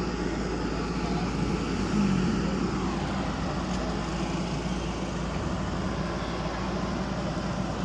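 Diesel engine of a JCB excavator running steadily under load as the machine comes down off a truck, swelling briefly about two seconds in.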